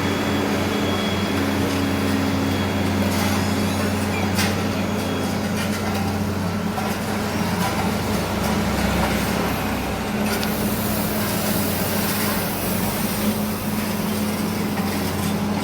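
Heavy diesel engines of road-paving machinery running steadily, with a few short knocks a few seconds in and a hiss of air partway through.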